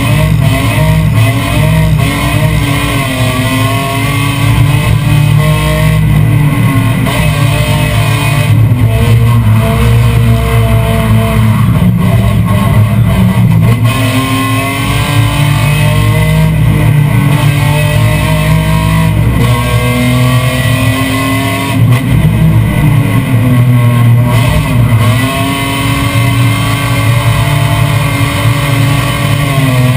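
BMW M3 race car engine heard from inside the stripped cabin, revving hard. Its pitch climbs and drops repeatedly as the driver accelerates, shifts and brakes for bends.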